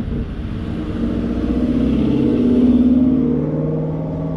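A car engine running close by, its low, steady note swelling to its loudest about two to three seconds in, then easing off.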